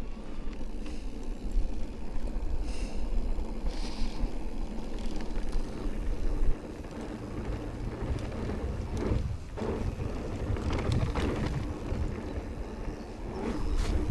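Riding noise from an Amflow electric mountain bike on a trail: steady wind rumble on the microphone with tyre and trail noise. The rumble drops suddenly about six and a half seconds in, and there are a few short rattles or scrapes later on.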